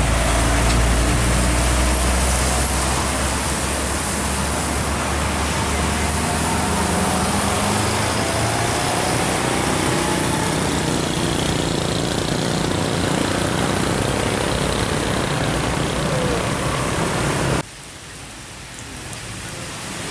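Heavy diesel trucks running on a road: a loud, low, steady engine drone with the engine note rising in the middle. The sound drops suddenly near the end to a quieter hiss.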